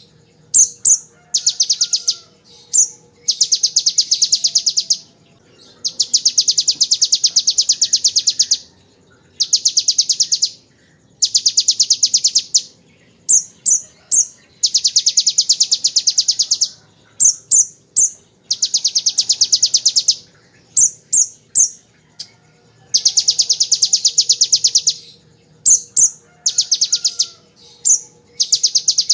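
Van Hasselt's sunbird (kolibri ninja) singing very rapid, machine-gun-like trills that copy the bar-winged prinia's 'ngebren' song. The trills come in bursts of about one to two seconds, each separated by short high chirps in quick twos and threes.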